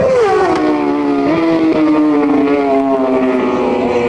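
Racing superbike engine at high revs, its pitch falling as the bike slows, with a couple of small steps up in pitch about a second in as it changes down.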